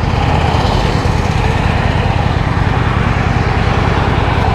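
Honda Shadow 750 V-twin motorcycle engine running steadily with a fast, even pulse, heard through a microphone inside the rider's helmet with wind noise over it.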